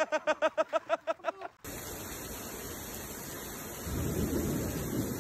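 Steady rushing noise of a strong storm wind on the microphone, growing heavier and lower about four seconds in. It starts abruptly after a brief, rapid run of rhythmic voice-like pulses that cut off about a second and a half in.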